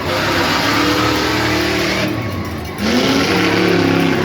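A modified off-road tuff truck's engine revs hard on a dirt course. The engine note dips briefly just before the three-second mark, then climbs again as the throttle comes back on.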